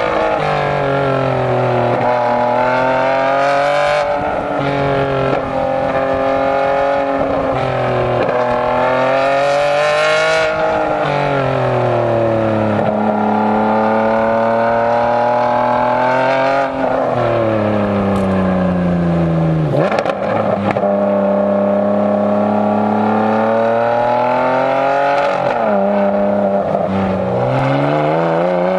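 Ferrari Enzo's V12 on a straight-pipe exhaust, driven hard: the exhaust note climbs steadily under throttle and drops sharply at each gear change, five times, with a few stretches where it falls away as the driver eases off.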